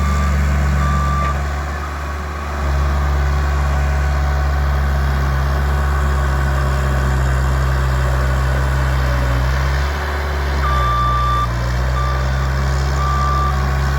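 Bobcat loader's diesel engine running steadily, picking up about two seconds in. Its reversing alarm beeps at the start and again from about two-thirds of the way through.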